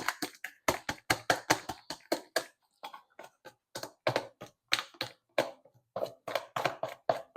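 A rapid, irregular run of sharp clicks and taps, about four or five a second: a knife knocking against a bowl as a marinade is stirred with it.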